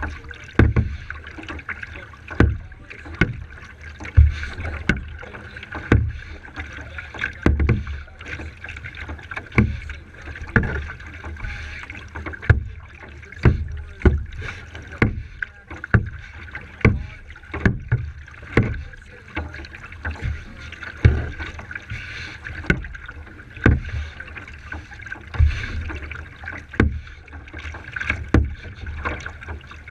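Kayak being paddled: paddle strokes through the water with a knock or splash about once a second over a steady water and wind hiss.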